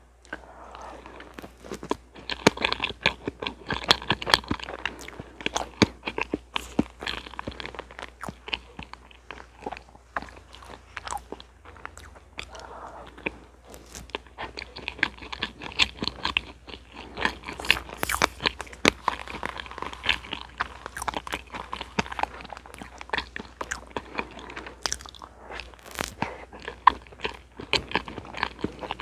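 Close-miked mouth sounds of eating a soft strawberry parfait of whipped cream and sponge cake: wet chewing and lip smacks with many small sharp clicks.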